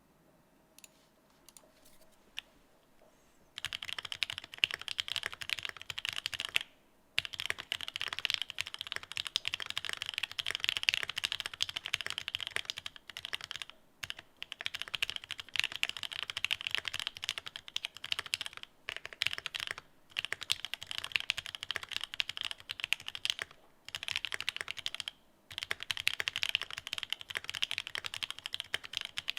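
Sustained fast typing on The New Eighty mechanical keyboard with Bingsu linear switches and Domikey Gift Cherry-profile keycaps: a dense run of keystroke clacks that starts about three and a half seconds in, with a few brief pauses.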